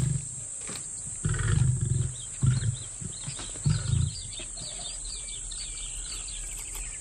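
Lion giving a few short, deep grunts over the first four seconds, with birds chirping in the second half and a steady high hum of insects.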